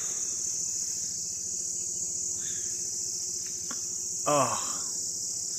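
Insects chirring in a steady, high-pitched drone that goes on without a break.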